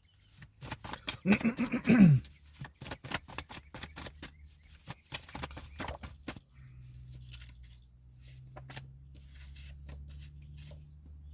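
Tarot cards being shuffled and handled: a quick run of light clicks and flicks, with a brief pitched vocal sound, rising then falling, about a second in. From about halfway a steady low hum takes over.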